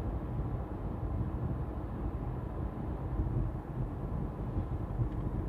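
Car cabin noise while driving, a steady low rumble, with a faint steady electrical-sounding whine from the air conditioning. The owner suspects the expansion valve, since the noise stops with the AC switched off or during idle stop.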